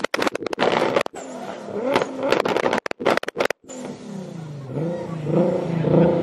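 Two Toyota Supras revved hard together. For the first few seconds there is a rapid stuttering of bangs and pops, with brief drop-outs in the sound. From about four seconds in, the engines' revs rise and fall.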